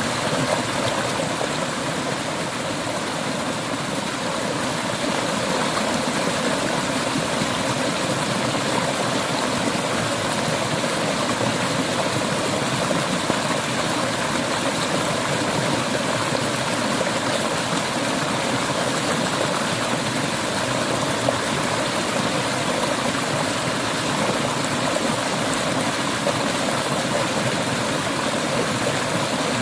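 Clear river water flowing and splashing over rocks in a steady, unbroken rush.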